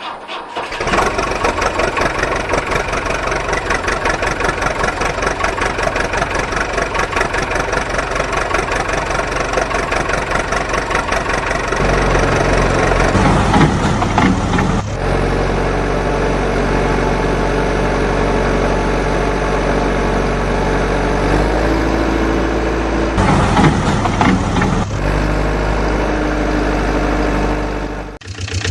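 Heavy-vehicle engine running steadily with a fast even pulse. About twelve seconds in a second, deeper engine note joins, with brief louder surges a little after and again near the end.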